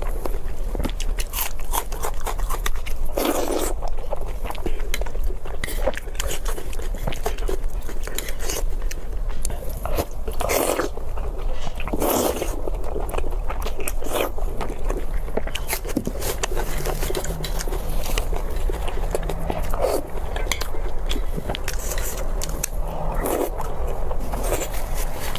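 Close-miked crunchy bites and chewing of crispy food, irregular crackling crunches throughout, over a steady low hum.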